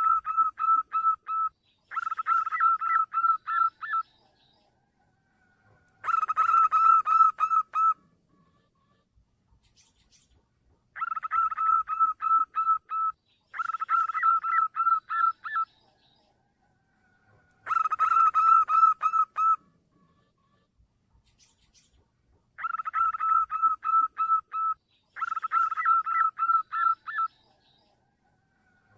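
Zebra dove (perkutut) song: bursts of about two seconds of rapid, staccato cooing notes, repeated every few seconds, some bursts coming in close pairs.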